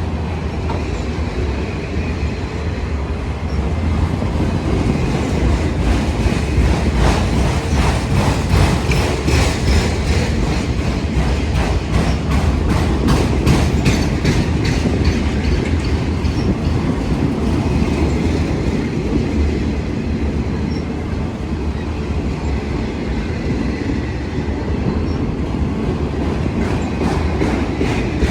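A train rolling past at speed: a steady rumble with the wheels clicking rapidly over rail joints. The clicking is thickest in the middle and again near the end.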